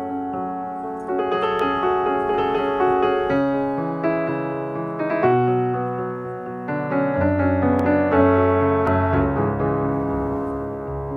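Background piano music: slow, sustained chords and notes changing about once a second.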